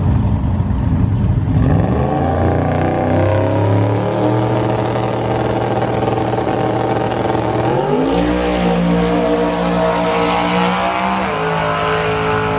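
Drag-racing car's engine held at high revs for several seconds, then climbing in pitch about eight seconds in and dropping sharply about eleven seconds in as it shifts gear.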